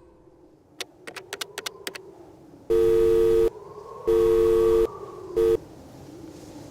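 A quick run of sharp clicks, then a telephone call tone: two steady two-tone beeps of about a second each and a short third beep that cuts off suddenly.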